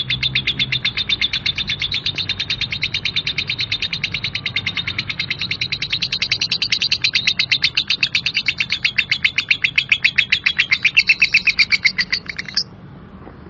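A lovebird's 'ngekek': one long, fast, unbroken run of harsh chattering notes, about eight a second. It stops abruptly near the end.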